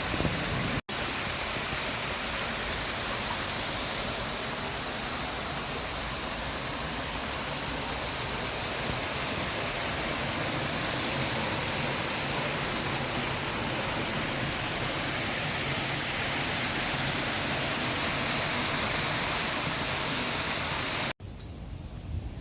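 Steady rush of falling water, as from a park waterfall or fountain, even and unbroken. It drops out for an instant about a second in and cuts off abruptly near the end to a much quieter background.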